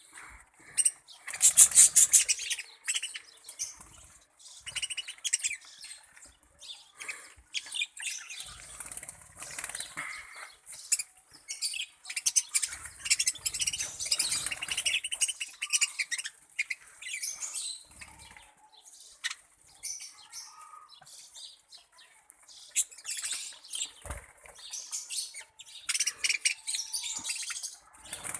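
A group of Australian parrots chirping and calling busily, with bursts of wing flapping among them.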